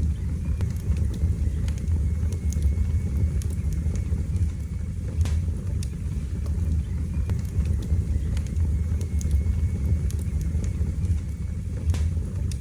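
Wood fire burning in a fireplace with a steady low roar, broken by a few sharp crackles and pops, the clearest about five seconds in and near the end.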